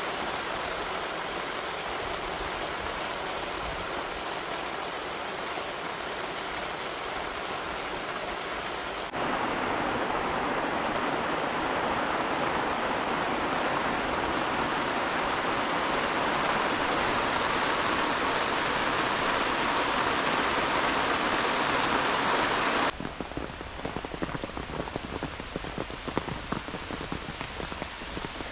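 Heavy rain falling, in three spliced takes: a steady rush, then a louder, denser downpour that starts abruptly about a third of the way in, then an abrupt cut near the end to a quieter patter of separate drops.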